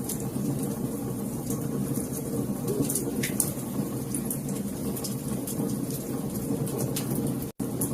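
Wood fire in a fireplace crackling, with frequent sharp pops and snaps over a steady low rumble of flames. The sound cuts out for an instant near the end.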